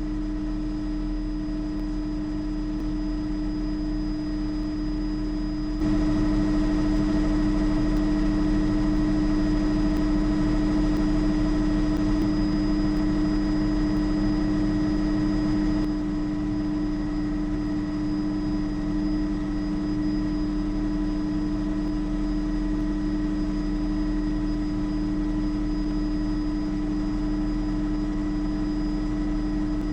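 Bell JetRanger helicopter in cruise flight: a steady drone of its single turbine engine and rotors, with several held tones. It gets louder about six seconds in and eases back about sixteen seconds in.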